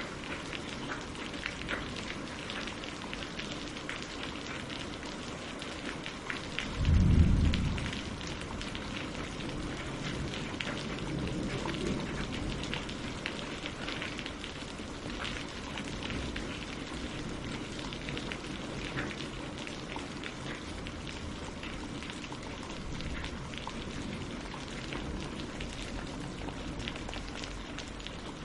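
Steady rain falling on the lake surface and on tree leaves, a dense patter of drops. About seven seconds in, a short deep rumble lasting about a second stands out above the rain.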